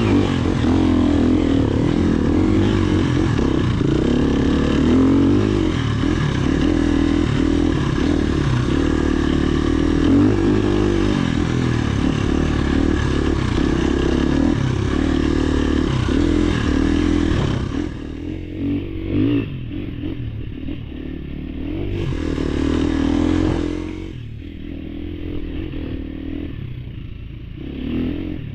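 Off-road dirt bike engine running steadily under throttle on a trail, then easing off about eighteen seconds in, with a short burst of throttle a few seconds later.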